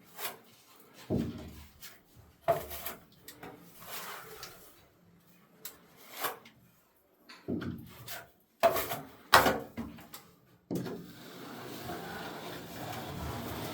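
Scattered knocks and short scrapes of hand tools working on a ceiling, then a steady scraping from about eleven seconds in.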